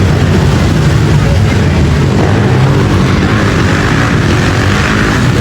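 Pit bike engines running hard during a race, a loud steady drone of several small motorcycle engines together.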